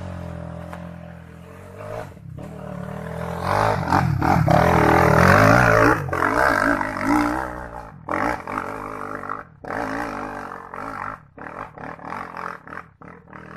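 Trail motorcycle engine revving hard as the dirt bike climbs a dusty slope, its pitch rising and falling with the throttle. It is loudest a few seconds in, then comes through weaker and in choppy bursts as the bike pulls away up the trail.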